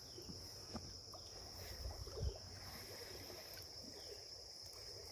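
Faint creekside ambience: insects droning steadily on one high pitch, over a low rumble and a few small faint knocks.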